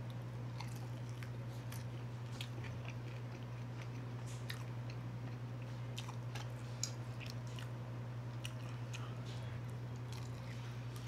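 Close-up sounds of eating bone-in chicken wings: bites, chewing and wet mouth clicks and smacks, scattered irregularly, over a steady low hum.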